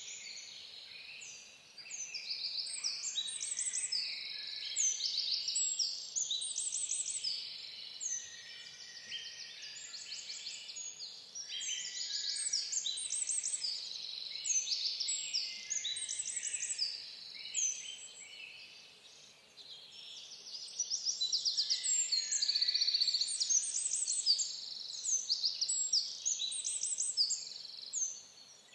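Small songbirds chirping and singing at once: a dense, overlapping chatter of quick high notes and rapid trills that thins out briefly a couple of times before picking up again.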